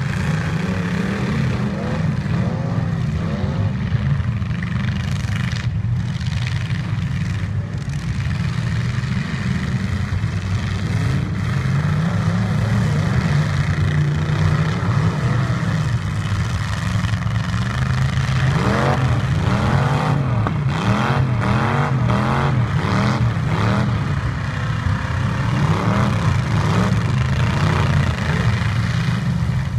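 Several derby truck engines revving up and down at once, their pitches overlapping and climbing and dropping, with the revving busiest in the second half.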